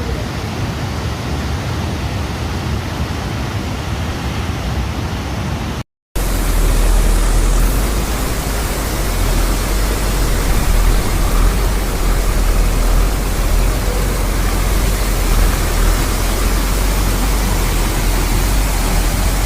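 Waterfall, water rushing in a steady, loud noise. It cuts out for a moment about six seconds in, then comes back louder with a heavier low rumble.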